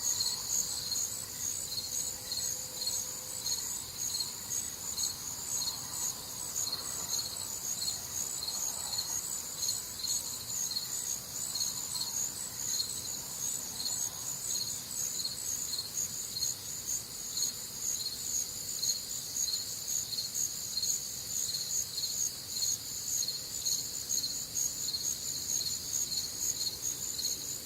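Crickets chirping steadily in a chorus, an even high-pitched pulsing of about two chirps a second.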